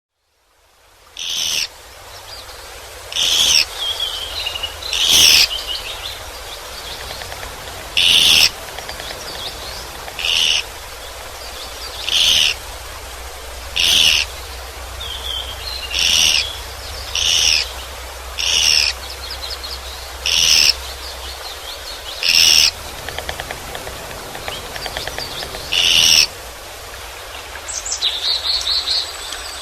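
Japanese pygmy woodpecker calling: a short, high, harsh call repeated about once every one and a half to two seconds, with softer twittering between calls and a brief chatter near the end.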